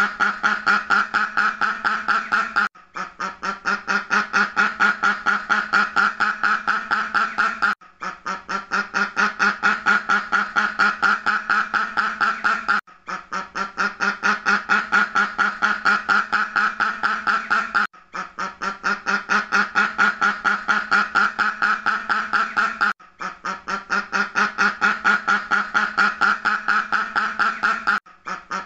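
A duck quacking in fast runs of many quacks a second. The same run of about five seconds repeats as a loop, with a brief break between repeats.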